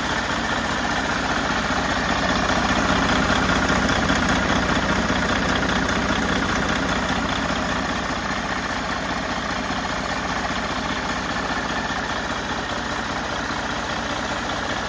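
2014 Detroit DD15 14.8-litre inline-six diesel engine idling steadily, growing a little louder a couple of seconds in and then settling back.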